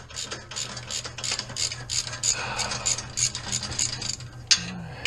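Hand socket ratchet clicking steadily at about three or four clicks a second as it works a bolt under the car.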